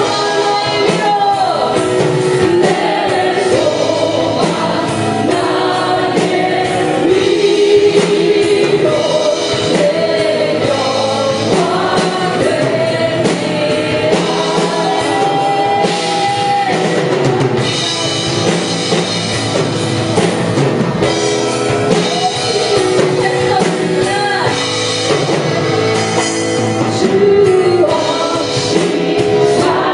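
Live worship music: a praise band playing while many voices sing a worship song together.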